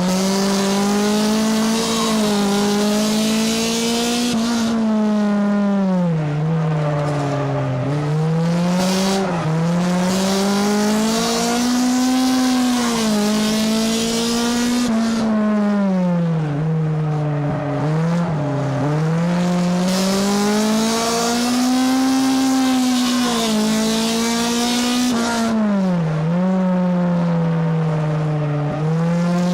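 Race car engine heard from inside the car at speed, revving up and easing off again and again as it laps a short oval, over a steady rush of wind and tyre noise.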